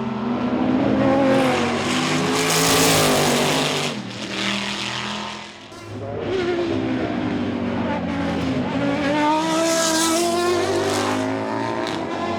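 Chevrolet Corvette C5-R's 7-litre V8 racing engine at high revs, its pitch rising and falling as it accelerates and shifts. The sound drops away briefly about five and a half seconds in, then builds again.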